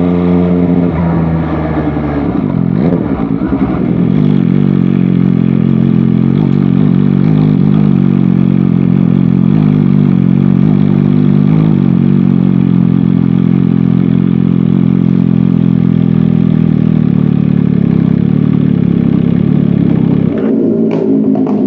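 MV Agusta Dragster 800 RR's three-cylinder engine running under way at a steady pace, with a change of pitch about two to three seconds in and another shift near the end.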